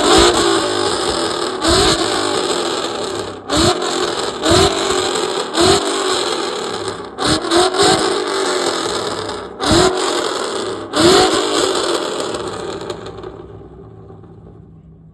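A car engine revved hard in about nine quick blips, each a sharp rise in pitch opening with a crack, with short lulls between them. The sound then fades out near the end.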